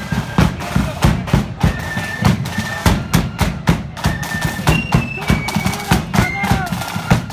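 Marching flute band playing: high, clear flute melody notes over rapid snare and bass drum beats.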